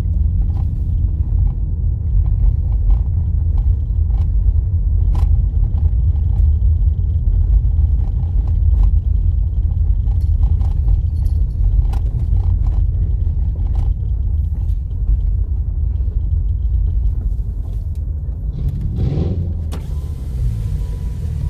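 Car driving on a rough dirt road, heard from inside the cabin: a steady low rumble of tyres and suspension with scattered knocks and rattles over the bumps. The rumble eases a little near the end.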